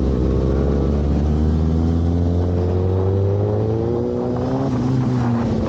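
Motorcycle engine running at low revs, its pitch rising slowly for a few seconds and then easing off near the end.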